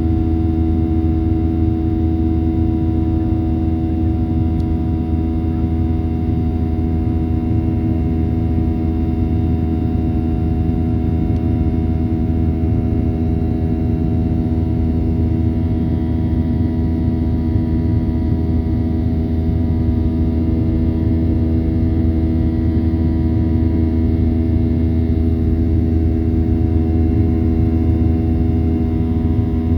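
Cabin noise inside a Boeing 737-800 with its engines running: a steady low rumble with a constant hum that does not rise or fall.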